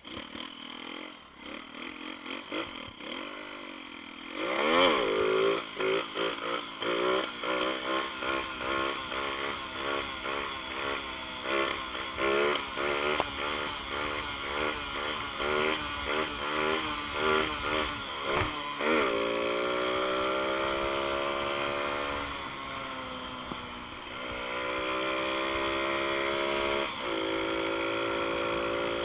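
Xpro Storm DLX 150cc pit bike's single-cylinder engine being ridden. For a stretch its revs swing up and down quickly, about twice a second. It then pulls up to steadier, higher revs, easing off briefly and rising again twice near the end.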